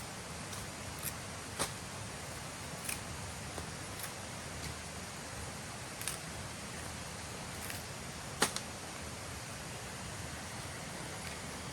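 Steady background hiss with a few scattered sharp clicks or snaps, the loudest about eight and a half seconds in.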